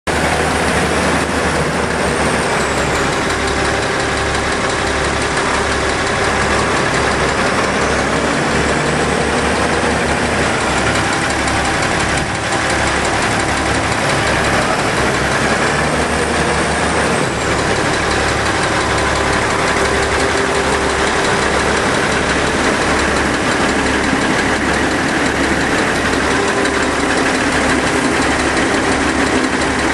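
Landini Legend 145 tractor's diesel engine idling steadily, with an even low throb.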